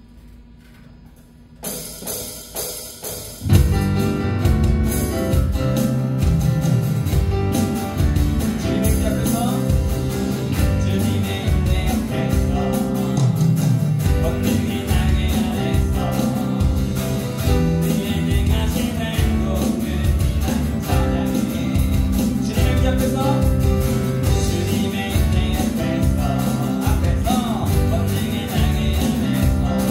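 Live worship band of acoustic guitar, keyboard, bass guitar and electronic drums starting an upbeat praise song. After a short quiet lead-in with a few hits, the full band comes in with a steady drum beat about three and a half seconds in.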